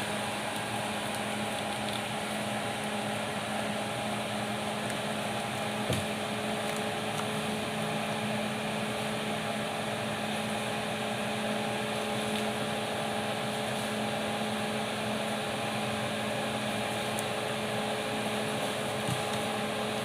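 Komatsu D68ESS bulldozer's diesel engine running steadily under load as it drags logs, a constant hum with a dense mechanical noise over it. A single short click about six seconds in.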